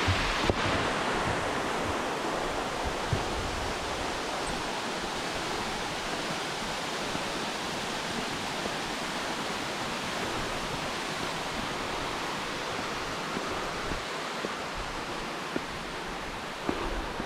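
Waterfall rushing, a steady even roar of falling water, with a few soft low thumps near the start and near the end.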